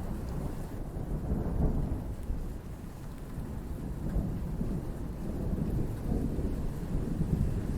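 Distant thunder rumbling continuously, swelling and fading several times, over steady rain.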